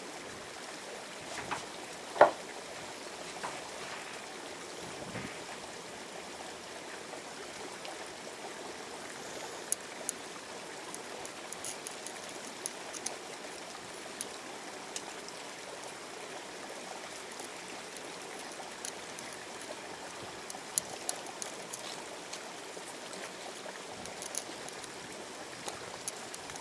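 Water running steadily at a river, with a few sharp knocks in the first couple of seconds, the loudest about two seconds in, and faint high clicks through the second half.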